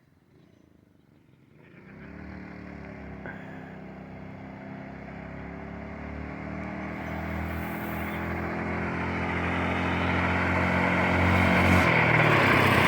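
Small engine of a homemade trike running, its sound growing steadily louder as the trike comes closer after a near-silent first second or two. Near the end the engine note turns into a louder, rougher noise as the trike gets close.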